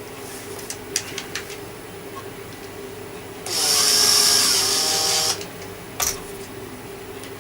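A small handheld power tool, like a drill-driver, runs in one burst of about two seconds, with its whine rising slightly as it spins. A few sharp clicks of handling come before and after it.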